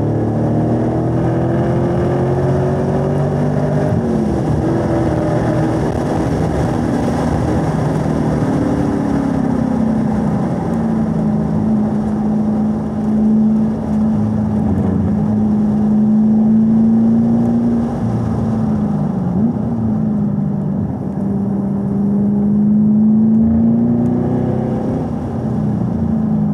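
A 2018 Camaro SS 1LE's V8 engine under track driving, heard from inside the cabin. Revs climb in third gear, drop at an upshift about four seconds in, and pull fairly steadily in fourth. Near the end the driver lifts and downshifts back to third.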